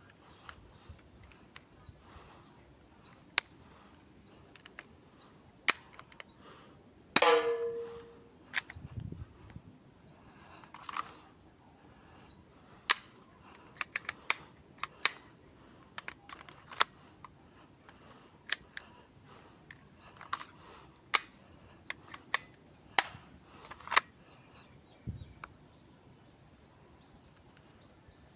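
SIG Sauer P226 airsoft pistol firing 6 mm BBs: about two dozen sharp pops at an irregular pace, some in quick pairs and triples, with one louder shot that rings briefly about seven seconds in. A bird chirps repeatedly behind the shots.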